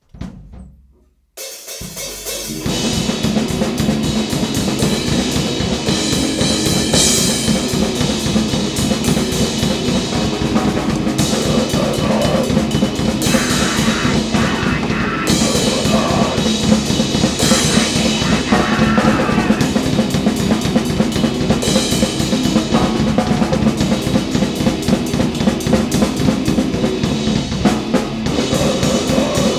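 Grind/noise band playing: drum kit and heavily distorted instruments in a loud, dense, unbroken wall of noise. It kicks in about a second and a half in, after a short first hit.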